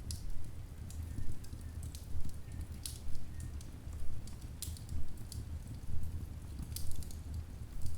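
Wood logs burning in a fireplace, crackling with irregular sharp pops over a low steady rumble.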